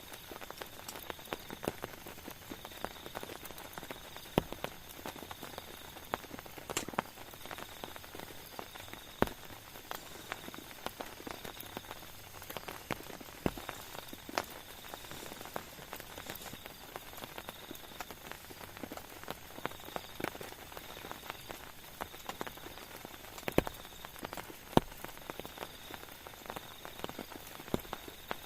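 Rain falling steadily, with many irregular sharp taps of single drops striking a surface close by.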